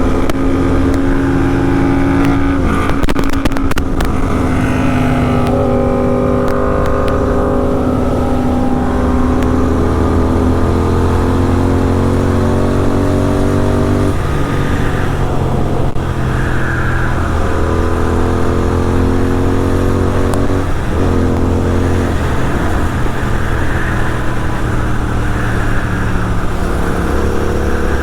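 Superbike with an aftermarket full-system exhaust under way, its engine note climbing slowly as it pulls and dropping sharply at each upshift, several times.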